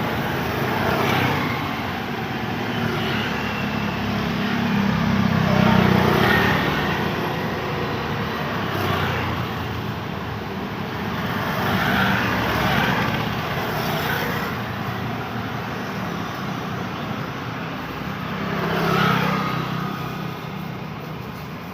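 Busy road traffic, with vehicles passing one after another. Louder passes swell and fade about every few seconds over a steady roar of tyres and engines.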